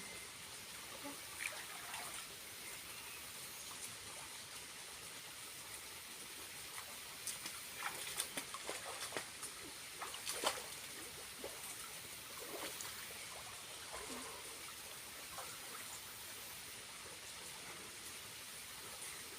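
Water from a small waterfall trickling steadily, with a cluster of short, sharp clicks and drips a little before the middle.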